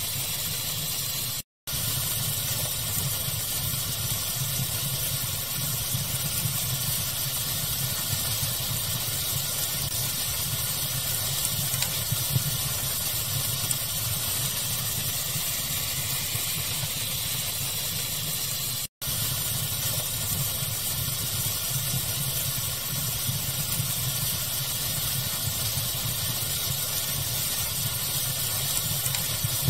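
Steady pink-noise hiss with a low rumble under it and a few faint fire crackles. The sound cuts out twice for a split second, about a second and a half in and again near the middle.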